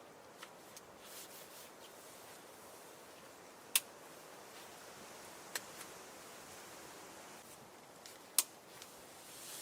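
A few sharp isolated clicks or pops, three of them loud and spaced a couple of seconds apart, over a faint steady hiss.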